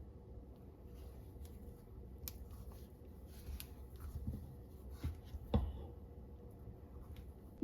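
Scattered light clicks and taps over a low steady hum, with one louder knock about five and a half seconds in.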